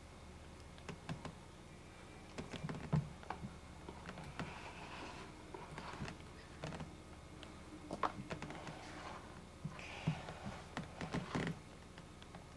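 Irregular clicks and light knocks with two brief rustles, about five and ten seconds in.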